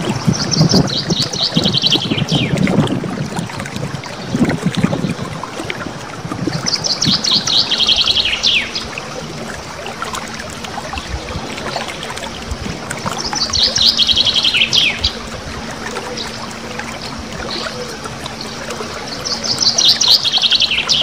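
Small songbird giving rapid-fire trilled song bursts in the 'nembak ngerol' style, four times, each about two seconds long and falling in pitch. A steady hiss like running water lies underneath.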